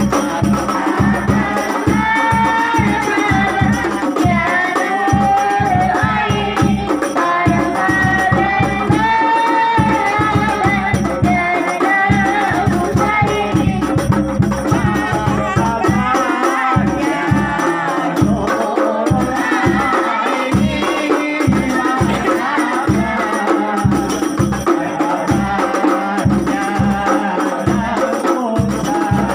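Voices singing an Arabic devotional song over fast, steady hand percussion with jingles and rattles.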